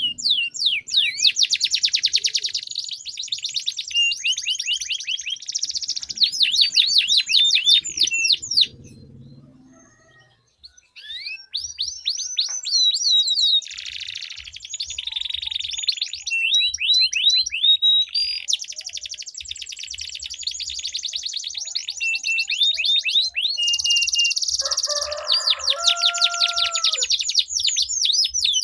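Domestic canaries singing long rolling trills, fast runs of repeated high sweeping notes. The song breaks off for a couple of seconds about nine seconds in. A lower whistled phrase comes near the end.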